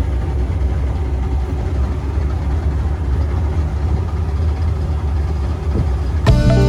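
A motor running steadily with a low, even rumble. Guitar music comes in just before the end.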